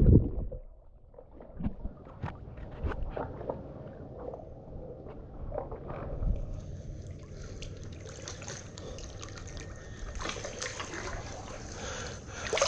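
Water sloshing and trickling, with scattered small splashes and knocks. A steady high hiss joins about halfway through.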